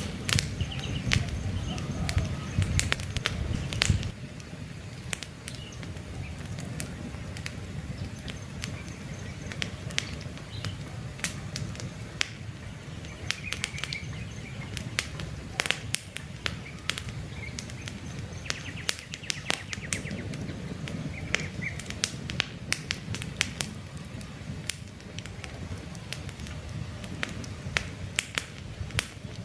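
Wood campfire crackling with frequent sharp pops and snaps over a low rumble that drops away about four seconds in, with birds chirping in the background.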